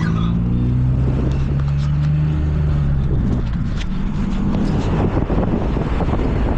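Car driving, heard from inside the cabin: a steady low engine hum for the first few seconds, then mostly tyre and road rumble with wind noise.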